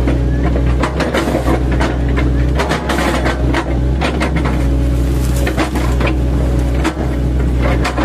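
Diesel engine of an 8-ton class mini excavator running steadily under load, with irregular sharp cracks and knocks as its bucket, fitted with chipping-knife tips, chops and splinters oil palm trunks.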